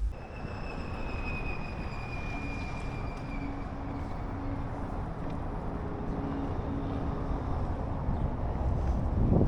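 Steady rumble of road traffic, with a thin high whine that glides slightly down over the first three and a half seconds.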